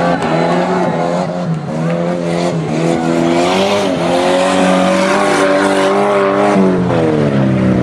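Engines of several old banger race cars running and revving hard, their pitch rising and falling.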